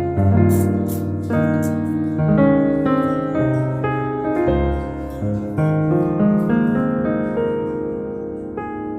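Background music: a piano piece playing a flowing run of notes.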